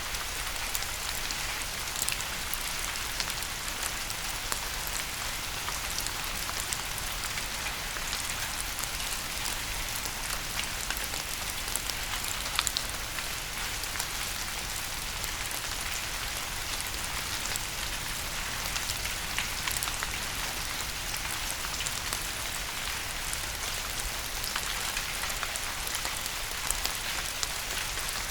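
Steady rain falling on a surface, an even hiss dotted with scattered sharp taps of individual drops.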